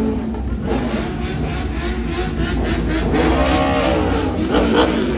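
Motor vehicle running with a steady low rumble. About three seconds in, an engine note rises and falls.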